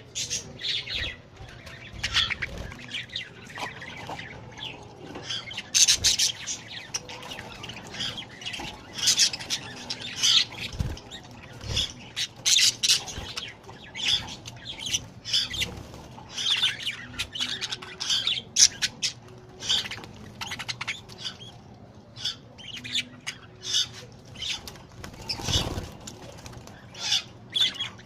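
Budgerigars chirping and squawking in quick, busy bursts throughout, with short flurries of wing-fluttering as they bathe.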